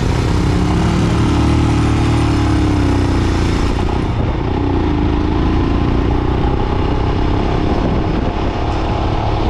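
Motorcycle engines running steadily on the road, with an engine note that wavers slightly in pitch over a constant low rumble.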